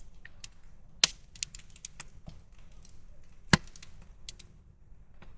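Wood campfire crackling, with irregular sharp pops and snaps; the two loudest pops come about a second in and about three and a half seconds in.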